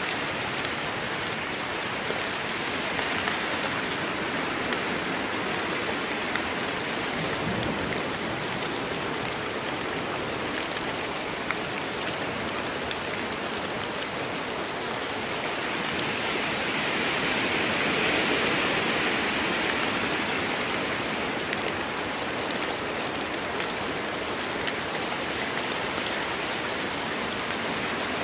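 Steady rain falling in a forest, a continuous hiss with fine drop patter, swelling slightly in intensity a little past halfway.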